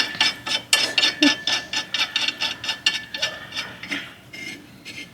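Hand ratchet wrench clicking in a quick, even run of about six clicks a second, thinning out to a few scattered clicks after about three seconds.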